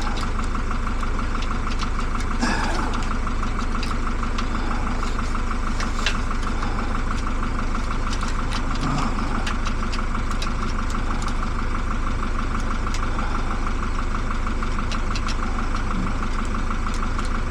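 An engine idling steadily, with a fine rapid pulse. Faint small clicks and a couple of brief sharper ticks sit over it.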